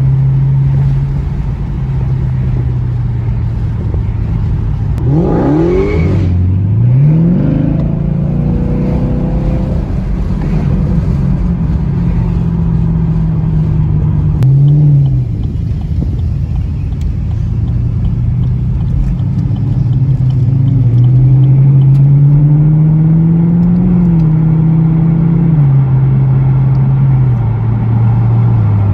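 Car engines running steadily, with one revved sharply about five seconds in, a short blip near the middle, and engine notes slowly rising and falling later on.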